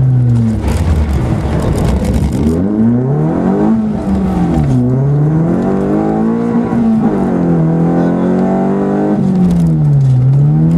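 Fiat Cinquecento rally car engine heard from inside the cabin, repeatedly revving up under acceleration and falling away on lifts and gear changes. A rush of noise sits under the engine for the first couple of seconds.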